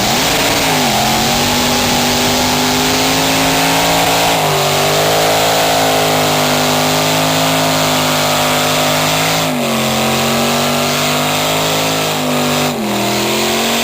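Police car's engine held at high, fairly steady revs during a burnout, with a loud hiss of spinning tyres over it. The revs dip briefly and pick up again a few times.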